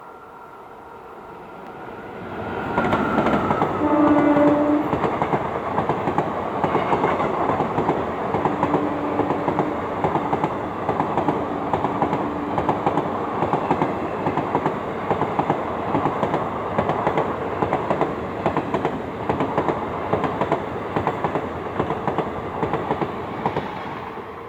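Express passenger train passing at speed. The noise builds quickly about two and a half seconds in, then the coaches rush by with a rhythmic clatter of wheels over rail joints for about twenty seconds before fading near the end. A short horn note sounds about four seconds in.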